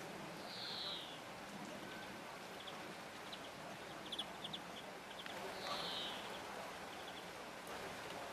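Steady rain hiss over a garden, with a small bird calling: two short, high, downward-slurred calls about five seconds apart and a quick run of high chips between them.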